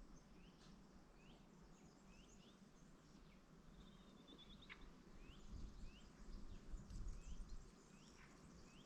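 Faint birdsong: a bird repeating short rising chirps at an even pace, with a brief high trill from another bird near the middle. A low rumble swells underneath in the second half.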